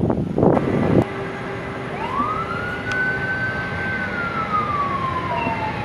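Wind buffeting the microphone, cut off abruptly about a second in. Then a steady rushing from an aircraft's engines, with a whine that rises, holds, and slowly falls.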